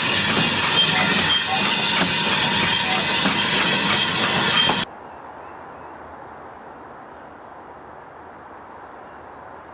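Train running, heard close up between the carriages: wheels clicking and rattling over the rails with hiss. It cuts off suddenly about five seconds in, leaving faint steady background noise.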